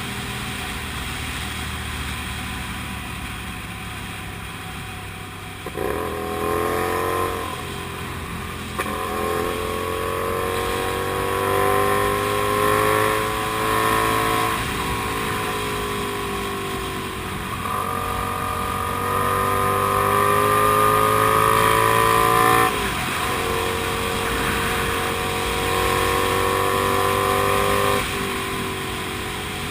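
Kasinski Comet GTR 250 V-twin motorcycle engine running steadily, then accelerating from about six seconds in: its pitch climbs through the gears, dipping briefly at each of several upshifts, and eases off near the end. Wind noise runs underneath.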